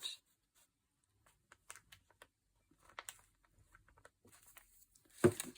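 Paper being handled at a table: faint scattered rustles and small taps, then one sharper, much louder rustle about five seconds in.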